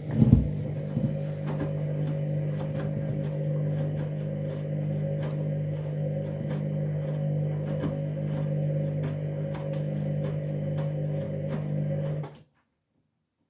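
Candy washing machine running with a steady mechanical hum and faint regular ticking. The sound cuts off suddenly near the end.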